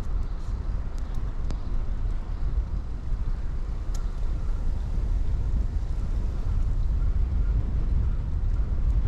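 Steady low rumble of wind buffeting a chest-mounted action camera's microphone while riding a bicycle, with a few sharp clicks from the bike.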